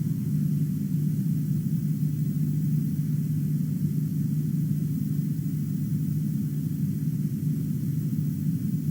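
A steady low rumble, even throughout with no distinct events.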